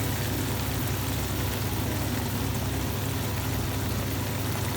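Steady low rumble with an even hiss from the stove under a pan of chicken curry masala, without stirring.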